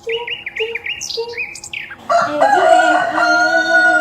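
A small bird chirping in quick, repeated falling notes, then a rooster crowing from about halfway through, one long held call.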